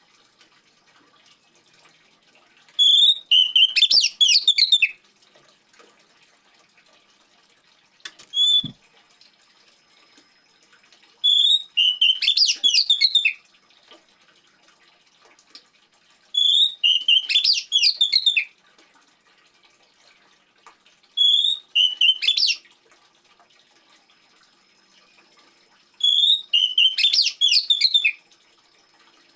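Oriental magpie-robin singing in short loud phrases repeated about every four to five seconds. Each phrase opens with a clear whistle and runs on into a rapid string of notes, with quiet gaps between the phrases.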